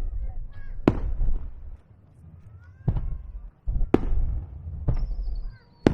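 Aerial firework shells bursting over a low, continuous rumble: five sharp bangs about a second apart. A thin whistle falls in pitch near the end.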